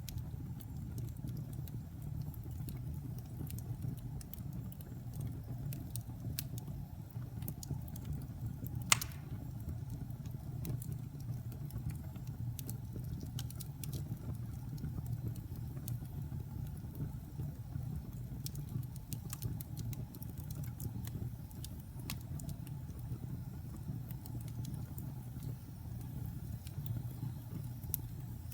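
Wood fire crackling in a fireplace: a steady low rumble of burning with scattered small pops and snaps, and one louder pop about nine seconds in.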